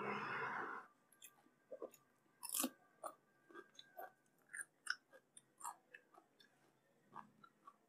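Close-miked chewing of a raw cucumber slice: a dense burst of biting for about the first second, then a string of separate small crunches and wet mouth clicks.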